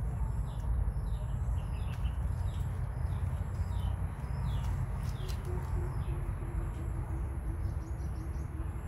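Small birds chirping in short, quick, falling notes, again and again, over a steady low rumble of outdoor background noise. A faint steady hum joins about halfway through.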